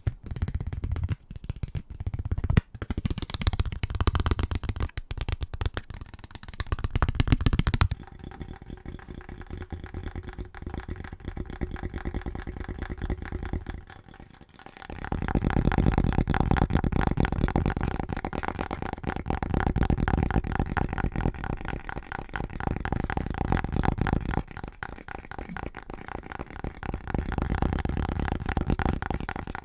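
Fast, aggressive tapping on household items, a rapid patter of clicks. It changes to a quieter, finer tapping about 8 seconds in, then to a louder, denser tapping about 15 seconds in as the object changes.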